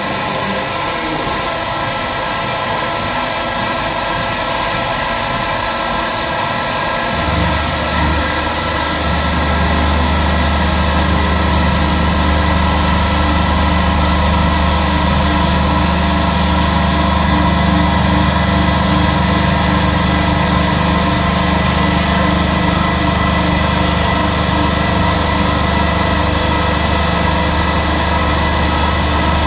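CNC machine running steadily, with a constant high whine; about seven seconds in, a deep hum cuts in and runs on steadily alongside it.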